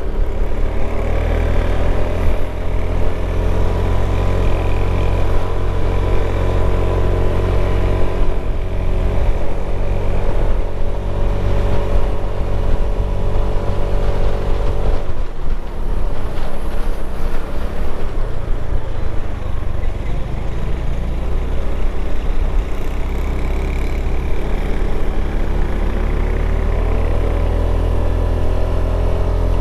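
Motorcycle engine running under way, a steady engine note over a strong low rumble. The note changes about halfway through and settles again.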